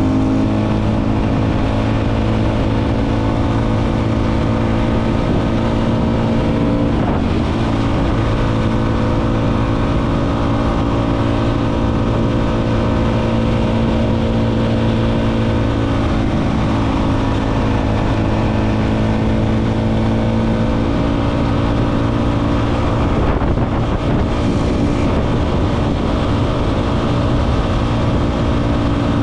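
Motorcycle engine running at a steady cruising speed while riding, with wind noise on the microphone. The engine note breaks briefly twice, about seven seconds in and again near the end.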